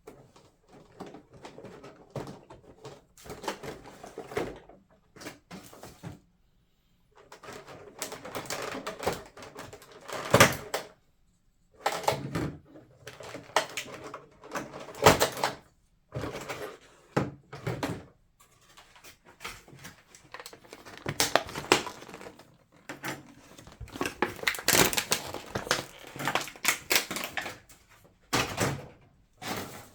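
Hands handling a scale model airliner and its parts: irregular clicks, taps and rustles, in clusters with short pauses.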